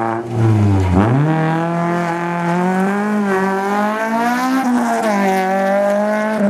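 Rally car engine revving hard under load. Its note drops sharply about a second in, as at a lift or gear change, then climbs again and stays high, wavering up and down.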